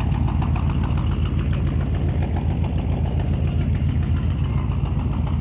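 A boat's engine running steadily with a fast, even low throb.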